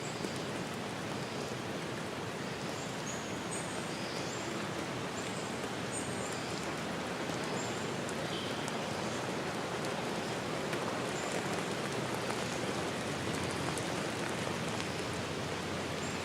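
Steady rushing water noise, like rain or a stream, with faint short high bird chirps scattered through it.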